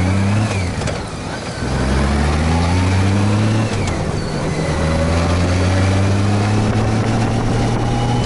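Honda Gold Wing motorcycle engine accelerating through the gears: the pitch climbs, drops at a gear change about a second in and again at about four seconds, then rises slowly.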